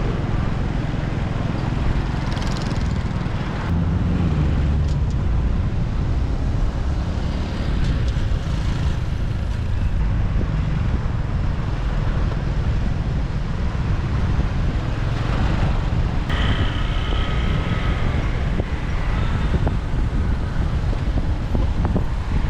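Motorbike riding through city traffic: a steady low rumble of engine and road noise with passing vehicles. About two thirds of the way through, a steady high tone sounds for about three seconds.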